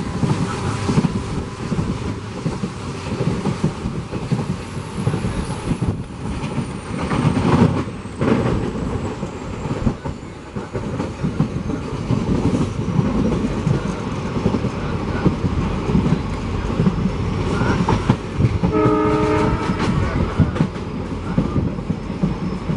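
A passenger train running at speed behind a WDP4D diesel locomotive, heard from an open coach door: wheels clattering over the rail joints, engine running and wind rushing. A short horn blast sounds near the end.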